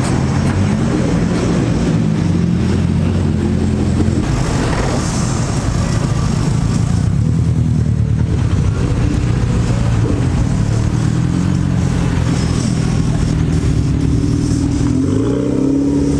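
Car engines running, their pitch rising and falling with the throttle, with a brief rev up and back down near the end.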